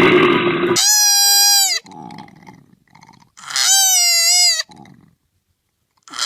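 A goat bleating: three high, wavering calls about a second long each, repeated every two to three seconds, each dropping in pitch at the end. Before the first call, a harsh rasping sound cuts off just under a second in.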